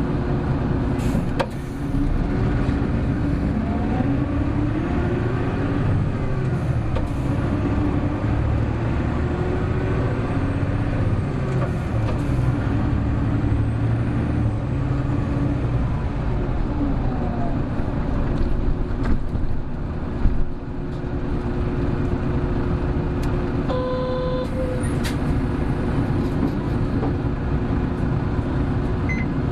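Hino Blue Ribbon City Hybrid city bus driving at speed: the diesel engine and drivetrain whine rise and fall in pitch as it accelerates and changes gear. A short steady electronic beep sounds about 24 seconds in.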